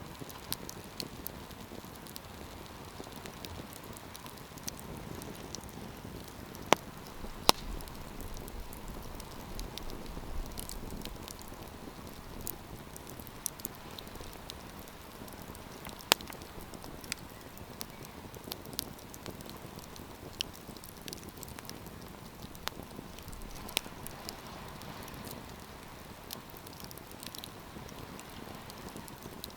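Wood campfire burning: a steady soft hiss with irregular sharp crackles and pops, a few louder pops standing out, two close together about a quarter of the way in and one a little past halfway.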